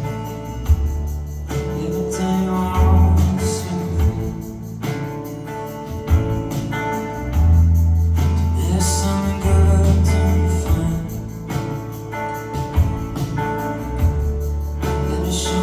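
Live band playing a song in concert: a steady drum beat over a heavy bass line, with guitar and keyboard parts.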